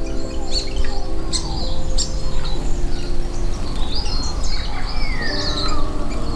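Small birds chirping and twittering in quick high calls, with a falling whistle about five seconds in, over soft background music with held chords.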